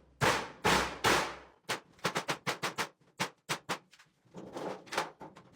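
Two loud bangs, each trailing off over about a second, then a run of quick sharp clicks and knocks, roughly four to five a second, with a short pause around the middle.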